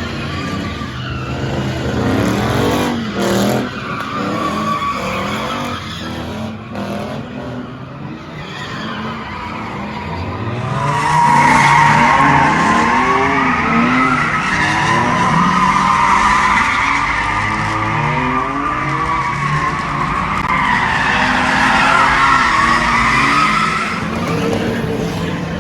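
A car's engine revving at high rpm while its tyres squeal in a drift. About ten seconds in, a long wavering tyre screech sets in and dominates over the engine.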